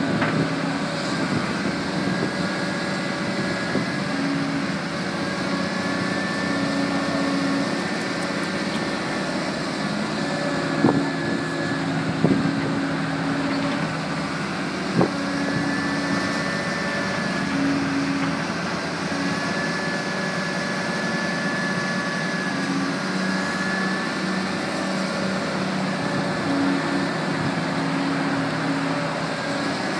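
Backhoe loader's diesel engine working steadily under load, with a high whine that rises and falls every few seconds. Three sharp knocks come about eleven, twelve and fifteen seconds in.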